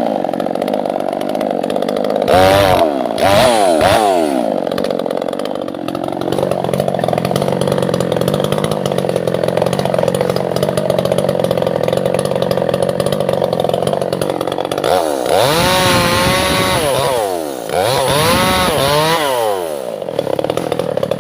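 Two-stroke chainsaw cutting albasia (sengon) wood, held at a steady high pitch under load through the middle. Its revs dip and climb again a couple of seconds in, and rise and fall several times near the end as the throttle is worked.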